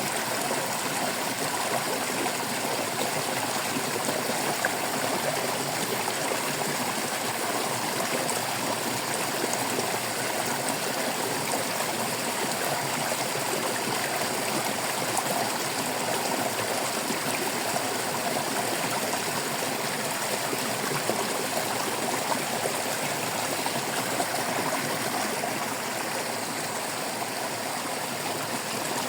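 Water babbling and gurgling steadily over rocks in a flowing stream.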